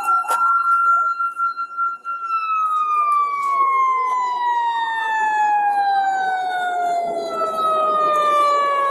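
Emergency vehicle siren holding one steady pitch for about two seconds, then sliding slowly and evenly downward in pitch for the rest of the time as it winds down. A second siren dips briefly in pitch near the start.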